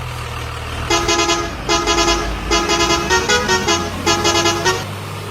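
A truck horn sounding in five quick pulsing, warbling bursts, with the pitch changing partway through, over a steady low engine rumble.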